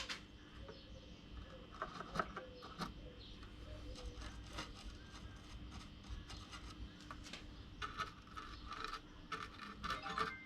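Faint scattered clicks and short light scrapes of small hand work, tools and materials being handled, over a low steady hum.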